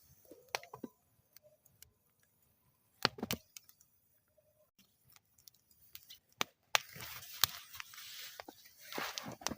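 Wood fire burning in a metal fire bowl, crackling with irregular sharp pops and snaps separated by quiet gaps; a short cluster of pops comes about three seconds in, and the second half turns busier, with a hiss and quick crackles under two louder pops.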